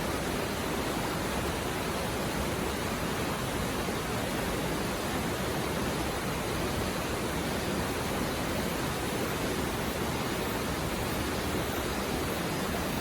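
Mountain river water rushing over rocks, a steady even rush.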